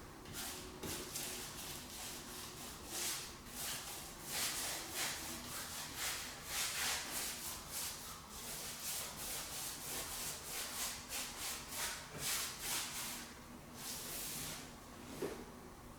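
Hand sanding of the repaired wooden door jamb, sandpaper rubbed back and forth in quick strokes, about two a second, with a light knock near the end.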